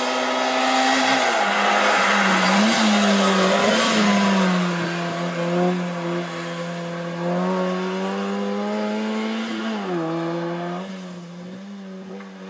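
Small hatchback race car's engine revving hard, its pitch dropping and climbing again several times as it works through a cone slalom. It is loudest about two to four seconds in and fades towards the end as the car pulls away.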